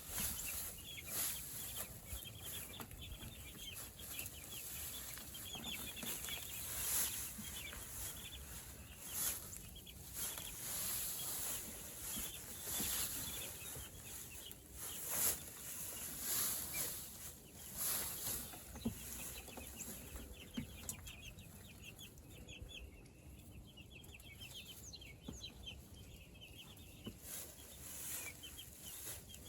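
A flock of meat chickens (broilers) clucking and making many short chirping calls, with scattered brief rustling noises.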